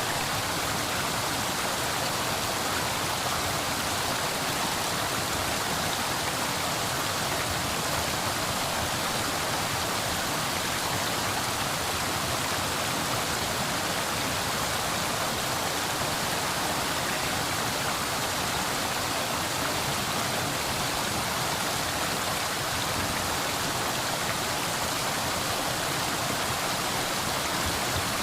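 Steady, even rush of water noise with no breaks or distinct splashes.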